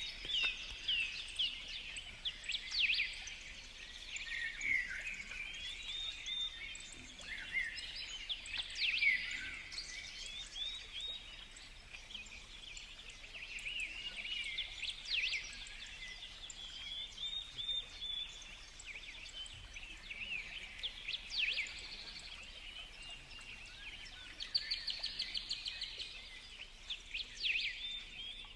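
Several songbirds chirping and calling over each other, with many short sweeping notes and a rapid trill about 25 seconds in.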